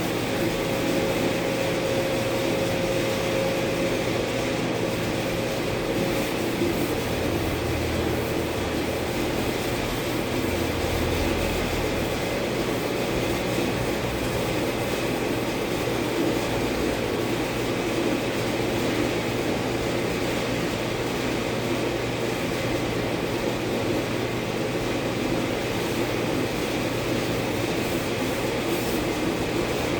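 Steady mechanical hum and hiss with a low drone, and a thin tone that fades out about six seconds in.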